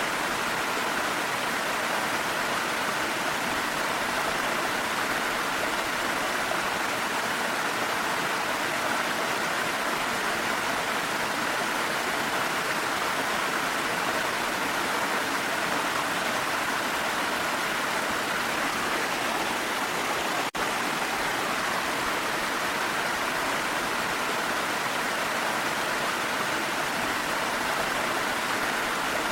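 Waterfall and rain in a steady, even rush of water that does not change, broken only by a split-second dropout about twenty seconds in.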